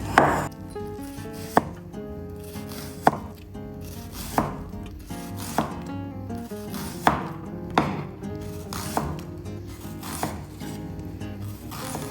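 Knife chopping on a cutting board: single strokes about once a second, the first the loudest, over background music.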